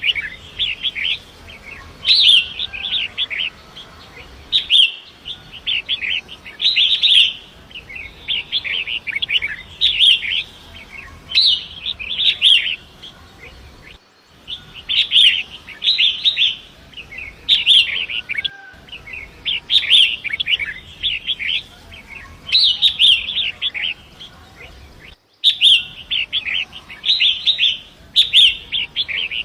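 Long-tailed shrike (pentet) singing a rapid, scratchy chattering song in phrases about a second long with short pauses, over a faint steady rush of flowing river water. The sound drops out for an instant a few times.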